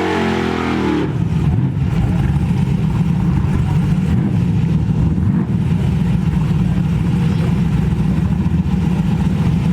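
A vehicle's engine running steadily with road noise, as while driving. The engine's pitch falls in about the first second, then holds at a steady low rumble.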